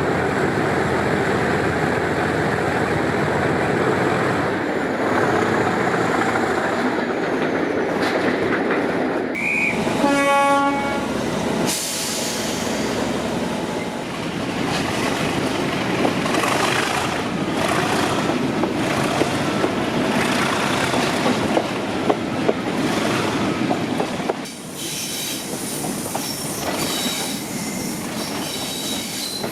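Class 37 diesel locomotive's English Electric 12CSVT engine working hard, heard from the train behind it over wheel and rail noise. The locomotive's horn sounds once for about a second and a half, roughly ten seconds in. The wheels click over rail joints, and about 24 seconds in the engine sound falls away, leaving a fainter high whine.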